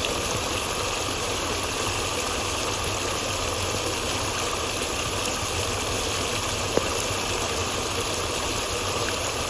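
Steady rush of flowing water, with one brief click about seven seconds in.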